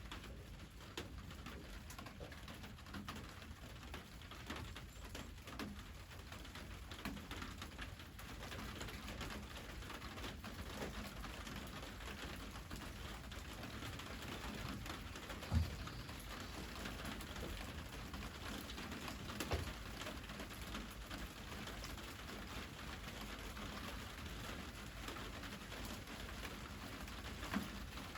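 A dove cooing now and then over a steady patter of rain, with a few dull thumps, the loudest about halfway through.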